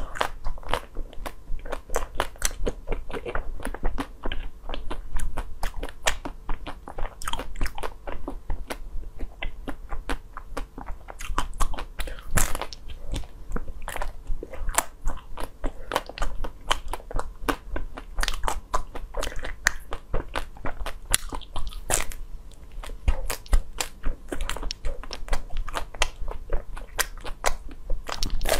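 Biting and chewing a frozen bar on a stick: the hard frozen bar crunches and crackles in many quick, irregular clicks, with mouth sounds close to the microphone.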